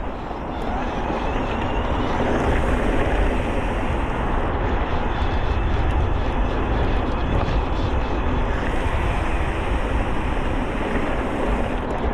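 Wind rushing over the camera microphone and tyres rolling over the trail while an electric mountain bike is ridden, a steady dense noise with a deep rumble and a few faint ticks of rattle.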